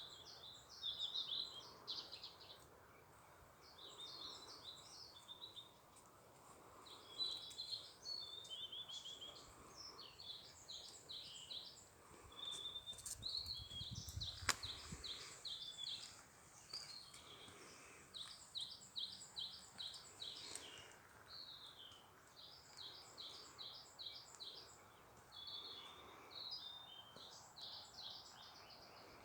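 Songbirds singing, faint: quick runs of short high notes repeated phrase after phrase, over a soft outdoor hiss. About halfway through there is a single sharp click with a brief low rumble.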